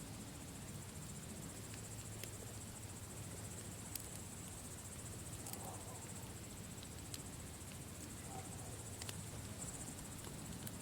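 Campfire burning: scattered sharp pops and snaps of the wood over a low steady rumble, with a steady high-pitched chirring throughout.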